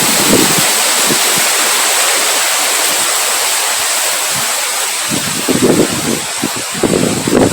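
Wind blowing as a steady hiss, with low gusts buffeting the microphone briefly at the start, then again about five seconds in and near the end.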